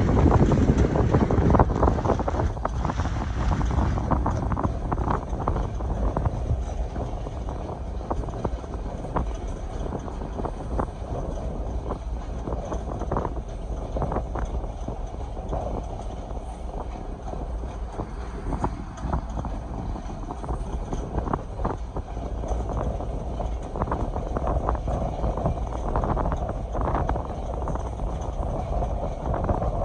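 A passenger train running along the track, with wind rushing over the microphone and irregular clicks and knocks from the wheels and carriages.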